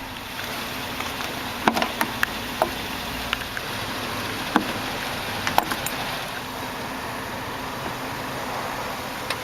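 Several sharp clicks and knocks from popping the hood of a 2009 Hummer H2: the hood release and latch being worked and the hood being raised, over a steady rushing background noise. The knocks stop a little under halfway through.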